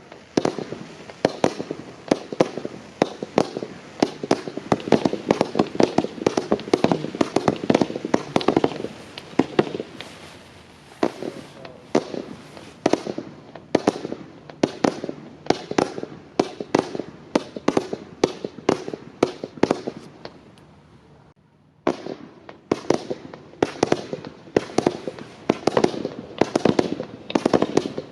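Multishot fireworks cake firing 20 mm comets: a rapid string of sharp launch shots, several a second. The shots stop for about half a second about three-quarters of the way through, then a second volley starts.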